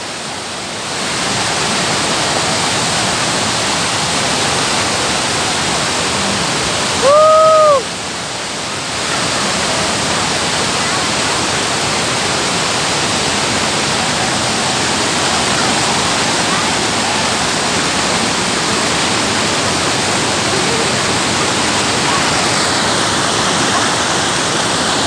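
Waterfall rushing steadily, water pouring onto rocks. About seven seconds in, a single short call rises and falls in pitch over the rush.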